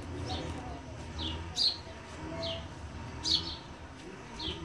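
A bird calling over and over: a short, high, softer note and then a louder one, about three times, spaced a second and a half to two seconds apart, over a low steady rumble.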